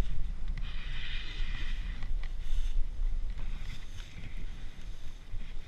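Wind buffeting the microphone and a steady low rumble from a mountain bike being ridden along a trail.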